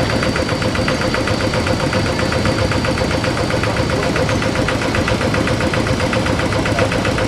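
Paddy-field tractor engine running steadily, a fast, even chugging with a steady whine over it.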